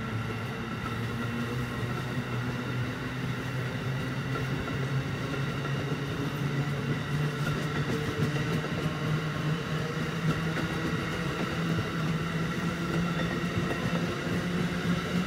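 Amtrak Northeast Regional train running at the station: a steady low hum that rises slowly in pitch, over a continuous rumble.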